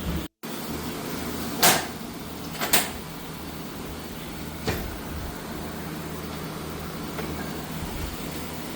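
Three sharp knocks or clatters over a steady low hum: the loudest about a second and a half in, a second knock a second later, and a fainter one about two seconds after that.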